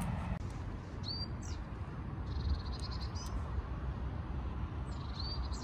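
Small songbirds chirping a few times, with a short high trill in the middle, over a low steady rumble.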